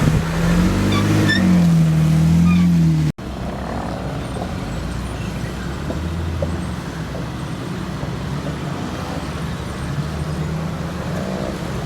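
4x4 engine running under load as the vehicle crawls up a trail obstacle, its pitch rising and falling with the throttle for about three seconds. It cuts off abruptly, then comes back as a steadier low engine hum.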